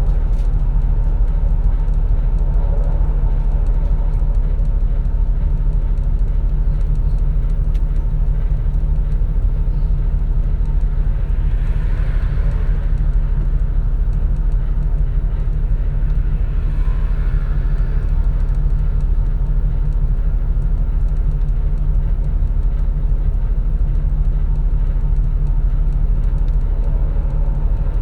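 Steady low rumble of a 2004 natural-gas (CNG) city bus's engine and drivetrain, heard from inside the cabin while it runs, with two soft swells of hiss partway through.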